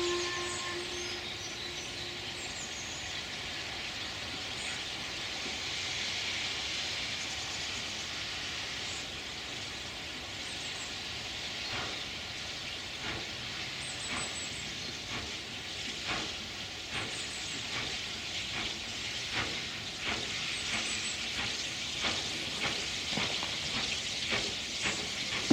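Steam locomotive hissing steam, with a short whistle tone at the start. About halfway through come sharp exhaust beats that grow more frequent toward the end.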